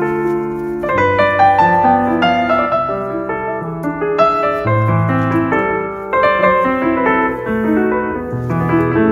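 Piano music: a melody of single notes struck about once a second over held low bass notes.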